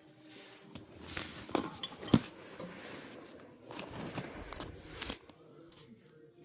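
Small hard objects and tools being handled: scattered clicks and scrapes, with one sharp click about two seconds in.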